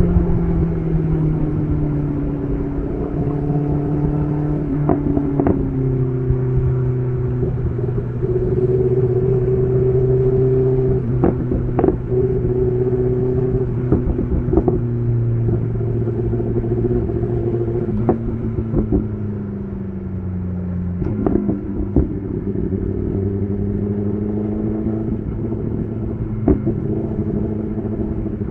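BMW S1000RR inline-four engine running through an SC Project CR-T titanium exhaust while riding. Its pitch steps up and down with throttle and gear changes, and occasional short sharp cracks come through.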